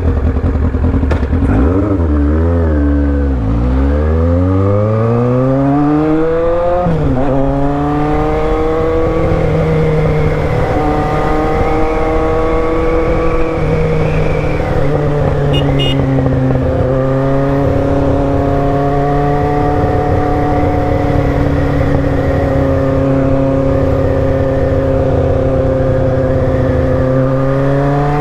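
Motorcycle engine pulling away: the revs go up and down a few times, then climb hard through the first gear and drop at a shift about 7 s in, climb slowly again, dip at another change of speed around the middle, and settle to a steady cruise, with wind noise over it.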